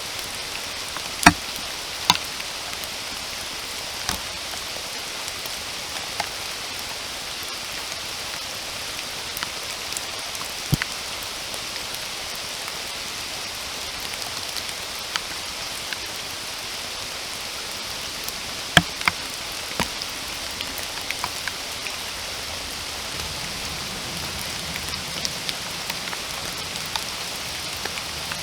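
Steady rain falling in a forest, an even hiss with scattered louder drops landing close by as sharp taps, the loudest about a second in, two seconds in and around nineteen seconds in.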